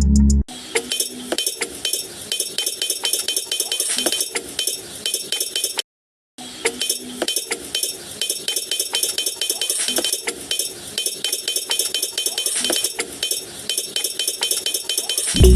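Rapid, irregular light clinks and taps of small hard objects, with a short cut to silence about six seconds in.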